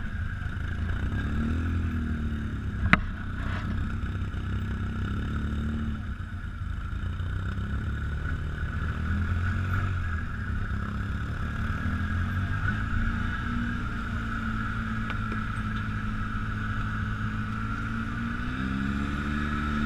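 ATV engine running at low speed, its pitch rising and falling gently, with a steady higher whine over it. There is one sharp click about three seconds in.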